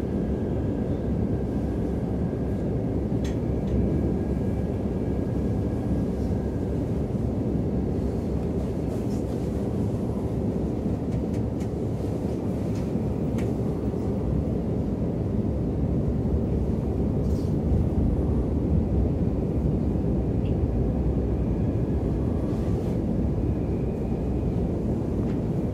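Steady low rumble of a moving passenger train, heard from inside the carriage as it runs along the rails.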